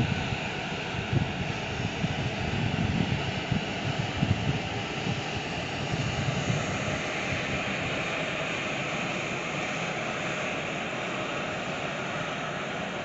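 A Siemens Vectron electric locomotive hauling a train of car-transporter wagons rolls through the station, giving a steady rumble and hiss of wheels on rail. There are uneven low swells in the first few seconds.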